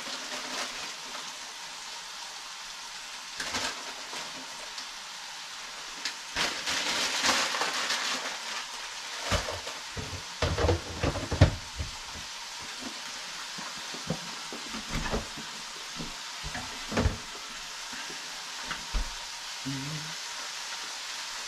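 Ham and baby spinach sizzling in skillets, a steady frying hiss, with clatter and knocks of utensils and pans, busiest between about six and twelve seconds in and sharpest near the middle.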